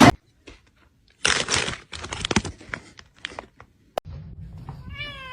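Rustling and crinkling with scattered sharp clicks, then near the end a domestic cat meows once, a short call that bends in pitch.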